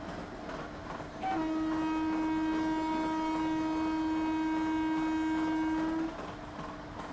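Train horn sounding one long, steady blast of about five seconds that starts a little over a second in and cuts off cleanly. Under it runs the rhythmic clatter of a moving train.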